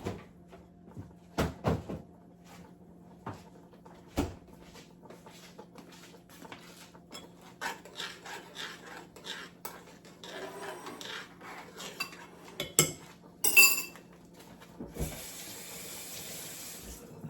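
Kitchen dishes and cutlery clinking and knocking in scattered strokes, with a louder clatter a few seconds before the end. Near the end, water runs from a tap for about two seconds.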